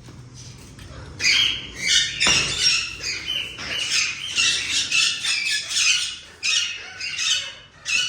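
Indian ringneck parakeets squawking, a run of harsh, rapidly repeated calls that starts about a second in.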